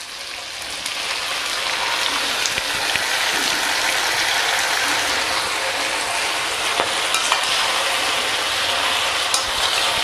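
Fried chicken pieces sizzling in hot oil in a kadai with sautéed onion and capsicum, stirred with a steel spatula. The sizzle builds over the first two seconds and then holds steady, with a few light clicks of the spatula against the pan.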